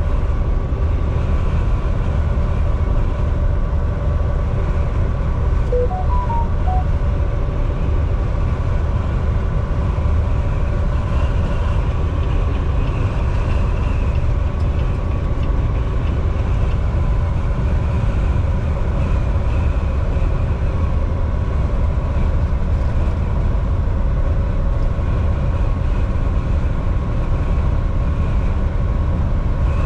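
Volvo VNL 760 semi truck cruising at highway speed: a steady engine drone over a low road rumble. A brief run of a few short tones sounds about six seconds in.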